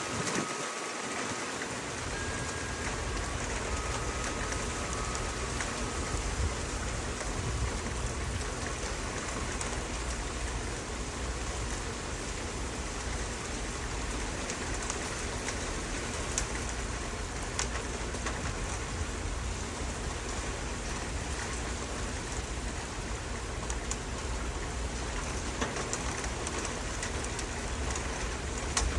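Steady rain falling, a continuous even hiss with scattered sharper drops ticking on a surface.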